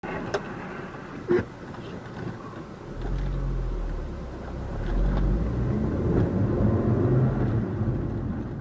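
Vehicle on the road heard from a dash cam: steady road and engine noise that grows louder and deeper about three seconds in, with two sharp knocks in the first second and a half.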